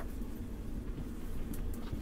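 Interior noise inside a JR Hokkaido 789 series 1000 electric train's motor car: a steady low rumble, with a few faint light clicks near the end.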